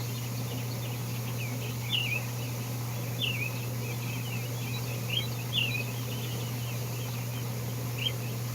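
Birds chirping: short, high notes every second or two, over a steady low hum.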